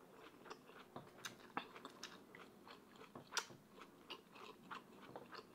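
A person chewing a mouthful of food: soft, irregular wet clicks and small crunches, the loudest about three and a half seconds in.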